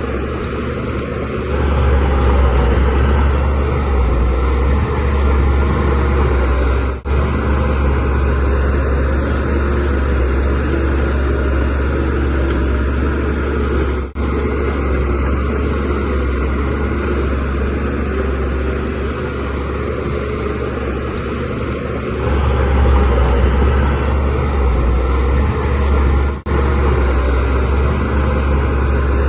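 Shantui DH17C3Pro bulldozer's diesel engine running steadily with a deep hum, growing louder about two seconds in and again near the end as it works harder. The sound drops out briefly three times.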